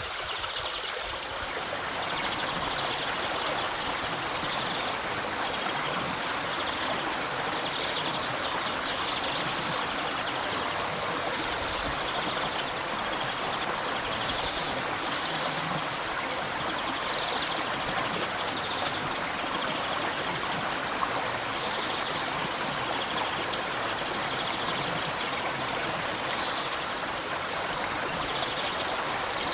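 Flowing river water, a steady rushing stream.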